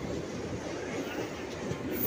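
Passenger train running, heard from inside a coach: a steady rumble of wheels on the rails.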